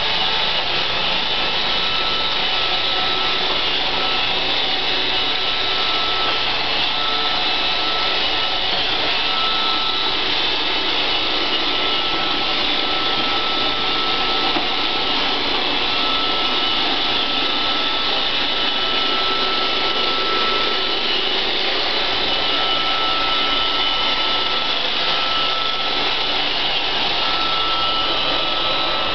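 iRobot Roomba 560 robot vacuum running steadily: an even whirring rush of motor and brushes, with a thin high whine held throughout.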